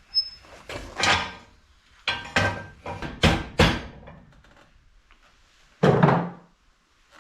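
Knocks and clunks of hard parts being handled and fitted: a run of about seven sharp knocks in the first four seconds, then one heavier, longer clunk about six seconds in.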